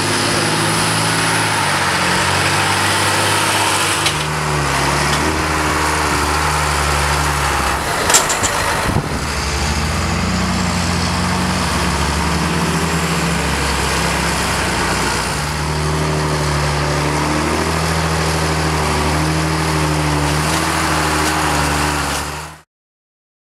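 Silage harvesting machinery running steadily: a Claas Jaguar forage harvester and John Deere tractor engines under load, with a brief knock about eight seconds in. The sound cuts off abruptly near the end.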